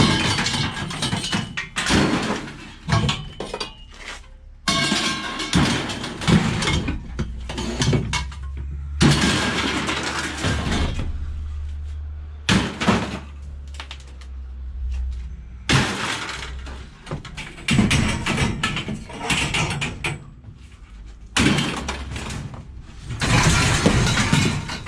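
Scrap metal clanking and clattering as pieces are pulled out of a load and dropped or thrown onto a pile, in irregular bursts with short pauses between. A low hum sits underneath for several seconds in the middle.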